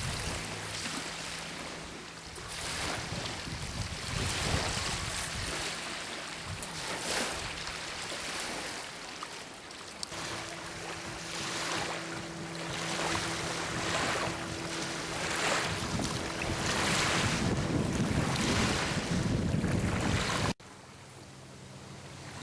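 Small waves lapping at a lake shore, washing in again and again every second or two, with wind buffeting the microphone and a low steady hum underneath. The sound drops off abruptly near the end, where the recording cuts.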